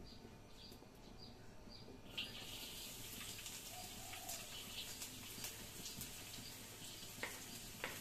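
A bird calls in short repeated chirps, about two a second. About two seconds in, a sudden sizzling hiss starts as garlic goes into hot oil, with scattered crackles and pops as it fries.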